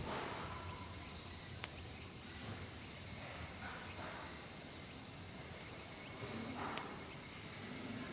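Steady high-pitched chorus of crickets or similar insects trilling without pause, with a couple of faint single clicks.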